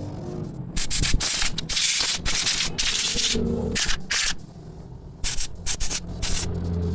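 Repeated hissing blasts from a spray nozzle, used while cleaning a motorcycle carburetor: a long run of bursts, a pause of about a second, then a few more short blasts.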